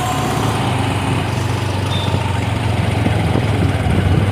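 Motorcycle engine running steadily under way, with road and wind noise, heard from on the bike.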